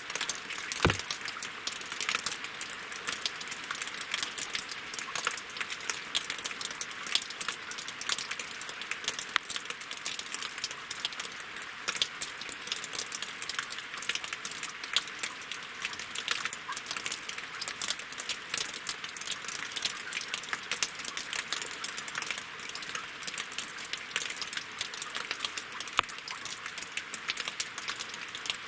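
Steady winter rain falling on logs and lake water: a dense, even stream of drops ticking and splashing, with one louder drop strike about a second in.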